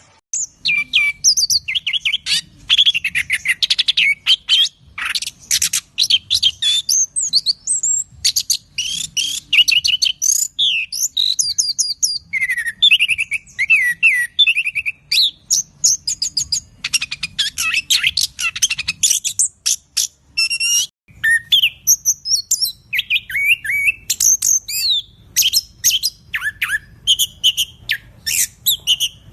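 Chestnut-capped thrush (anis kembang) singing a loud, fast, continuous song of varied whistles, trills and rapid chattering notes, pausing briefly about two-thirds of the way through before carrying on.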